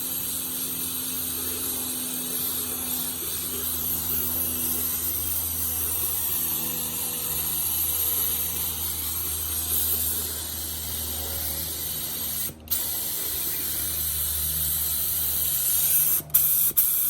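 Paint spray gun spraying lacquer thinner through to flush it clean: a steady hiss of air and spray with a faint low hum underneath. It cuts off briefly about twelve and a half seconds in, then stops and starts several times in quick succession near the end.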